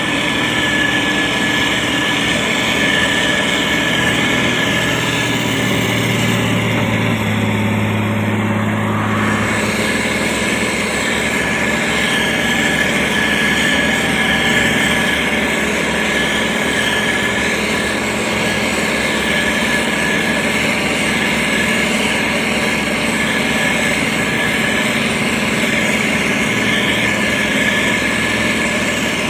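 Motor grader's diesel engine running steadily while working. A deeper engine note strengthens for a few seconds and drops away about nine or ten seconds in.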